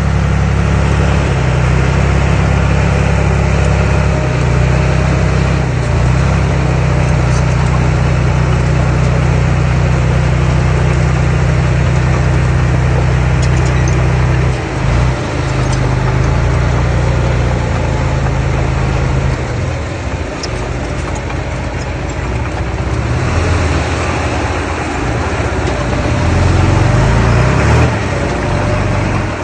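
Diesel engine of an earthmoving machine running steadily under load, dipping briefly about halfway through and easing off for a few seconds before picking up again near the end.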